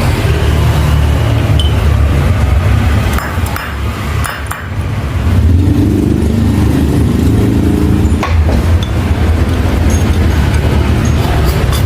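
Metal clinks and taps of tools and parts being handled, over a loud, steady low hum.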